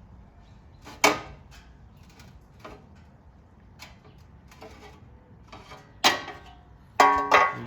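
Sharp knocks and clicks of hand tools and bolt hardware being handled while fitting UTV A-arm guards, two loud knocks about a second in and about six seconds in with softer clicks between.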